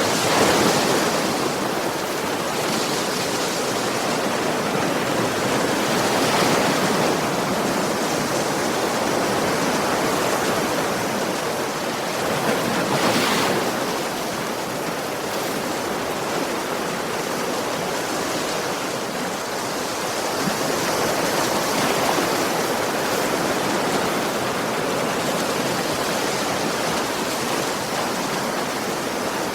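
Sea waves breaking and washing up on a beach: a continuous rushing hiss that swells and eases every several seconds, with the strongest surges about a second in and around the middle.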